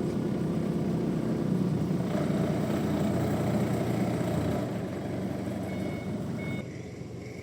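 A heavy engine running steadily, fading somewhat toward the end. Two short high beeps sound near the end.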